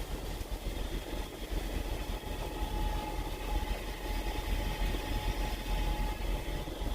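Semi truck's diesel engine idling steadily, a low rumble heard inside the cab, with a faint steady whine from about a second in.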